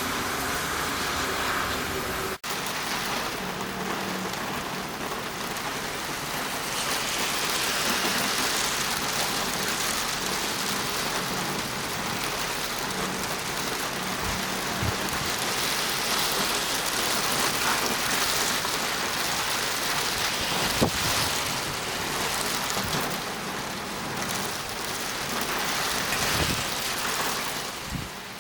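Heavy typhoon rain pouring steadily, with a momentary break in the sound a couple of seconds in.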